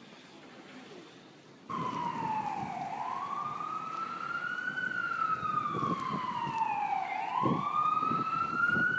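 Faint hiss, then about two seconds in an emergency vehicle siren comes in suddenly, wailing slowly up and down in pitch, each rise or fall taking two to three seconds, over a low rumble.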